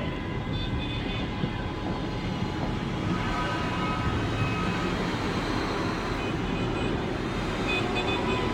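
Steady din of street traffic, with a few short horn-like toots.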